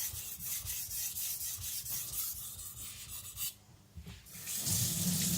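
Carbon-steel nakiri blade being stroked back and forth on a wet Japanese water stone, a rapid scraping rasp that stops about three and a half seconds in. Near the end, water starts running from a tap.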